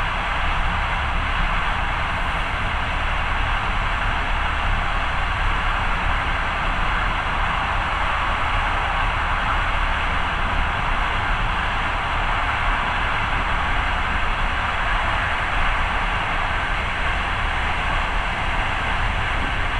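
Moving passenger train heard from the carriage window: a steady rush of air and running gear over a low rumble, unchanging throughout.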